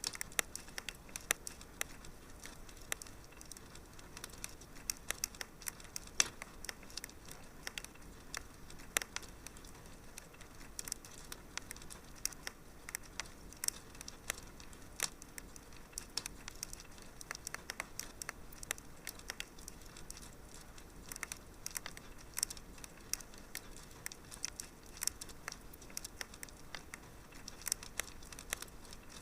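Wood fire crackling steadily in a fireplace: irregular sharp pops and snaps, a few every second, over a soft hiss of burning.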